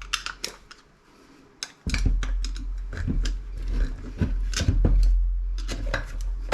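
Metal tools and radio parts clinking and knocking as a screwdriver works the parts loose. A low rumble starts about two seconds in.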